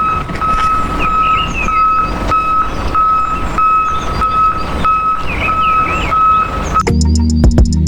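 Vehicle reversing alarm beeping steadily, about two and a half beeps a second, over a noisy motor hum with a few chirps; it cuts off near the end.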